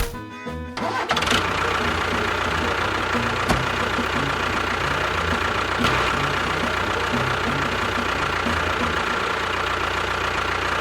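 A small motor running steadily with a constant whine. It starts about a second in, as music cuts out.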